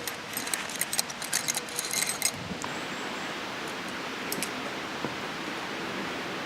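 Quick run of small metallic clinks and jingles for about two seconds, like small metal items being handled, then a steady hiss of background noise.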